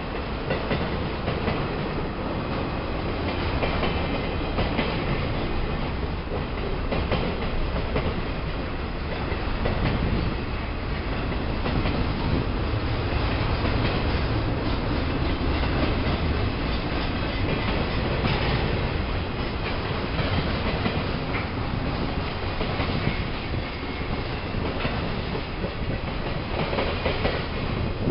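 Freight cars of a long intermodal train rolling past steadily: a continuous rumble and clatter of steel wheels on the rails.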